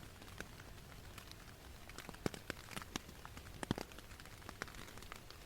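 Heavy rain falling, with a steady hiss and many irregular sharp ticks of single drops hitting a nearby surface.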